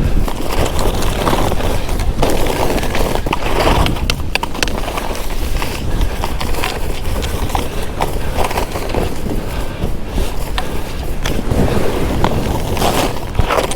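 Skis hissing and scraping through snow on a run, with wind buffeting the camera microphone as a steady low rumble.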